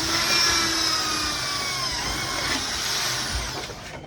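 Electric power tool motor running with a high, steady whine; its pitch sags and it fades out near the end as the motor winds down.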